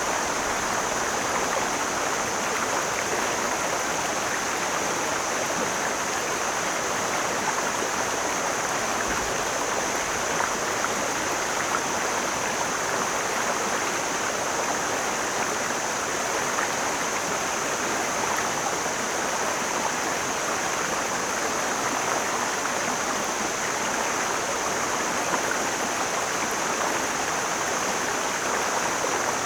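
Mountain stream flowing: a steady, even rush of water that does not change, with a thin, steady high hiss above it.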